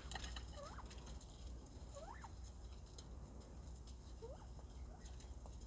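Bobwhite quail giving soft, short rising chirps, about four single notes spaced a second or two apart, over a steady low rumble.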